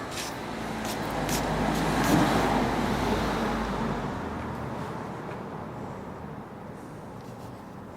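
A motor vehicle passing on a road: a rumbling noise that grows louder to a peak about two seconds in, then fades away.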